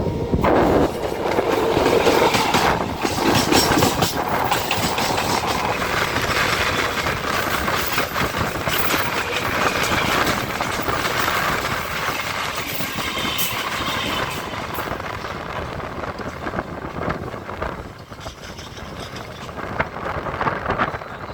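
EMU local train running, heard from on board: a steady rush of rail noise with wheels clattering over rail joints. It eases off somewhat near the end.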